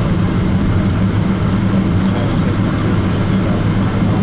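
Steady cabin noise of a Boeing 777-200ER rolling on the ground just after landing: a constant low drone from the engines and aircraft.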